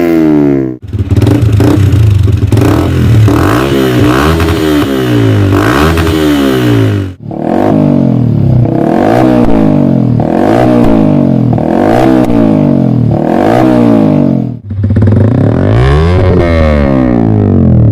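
Yamaha MT-15 V2's single-cylinder engine revved over and over through aftermarket exhausts, its pitch climbing and falling about once a second. The sound cuts off abruptly three times as one exhaust's clip gives way to the next.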